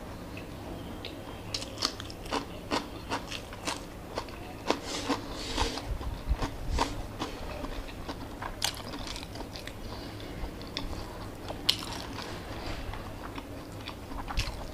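Close-up mouth sounds of a person eating rice by hand: chewing with irregular wet smacks and clicks of the lips, thickest in the first half and sparser later.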